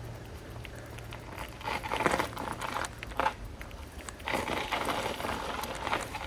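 Bicycle tyres rolling over loose, crunchy trail surface, two stretches of crackling and crunching, each a second or two long.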